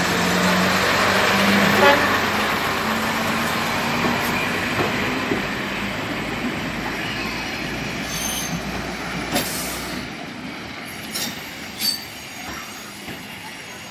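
Vintage diesel train passing: the engine runs with a steady low drone under the noise of the wheels on the rails. It is loudest about two seconds in and fades as the train moves away, with a few sharp clicks in the last few seconds.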